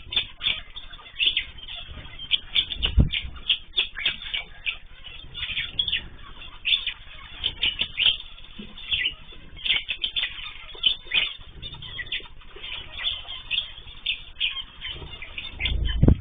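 A flock of small cage birds chirping constantly in quick, overlapping calls, with wings fluttering and a few soft thuds, about 3 seconds in and near the end.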